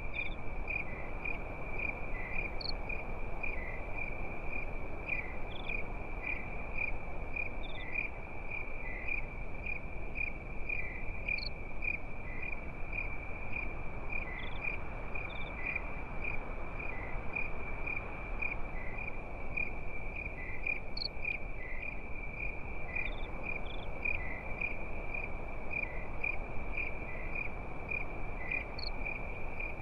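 Crickets chirping at night in a dense, steady, fast-pulsing high trill, with a few higher single chirps scattered through. A low, even background hiss runs underneath.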